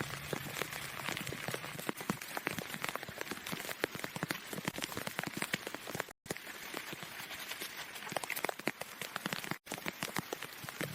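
Rain falling, a steady hiss dense with small drop impacts, broken by two brief gaps where the sound drops out completely, about six and nine and a half seconds in.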